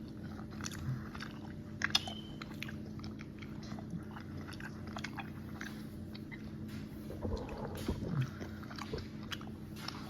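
A person chewing Haribo gummy candy close to the microphone, with small wet smacks and clicks of the mouth and one sharper click about two seconds in. A steady low hum runs underneath.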